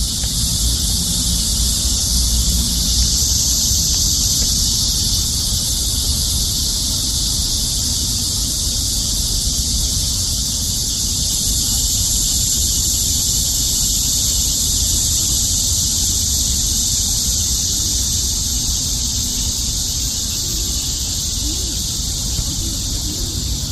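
Steady, loud insect chorus, a continuous high shrill drone that never lets up, over a low rumble.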